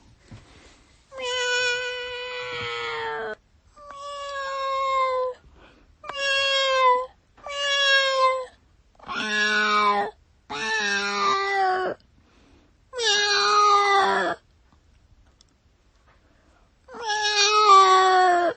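A domestic cat meowing: eight drawn-out meows, each about a second long, the first closer to two seconds. There is a longer pause of about three seconds before the last one.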